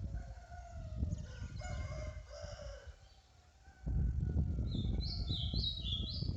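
A rooster crows once, a long call that steps in pitch. Later a small bird sings about three quick, repeated pairs of high notes. A low rumble runs underneath, dropping away briefly in the middle.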